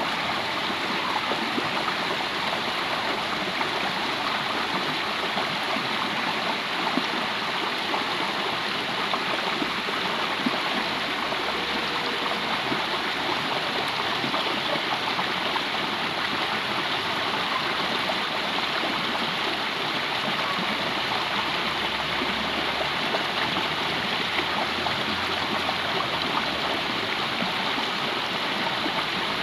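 Water of a small stream running steadily, a continuous rushing with light gurgling.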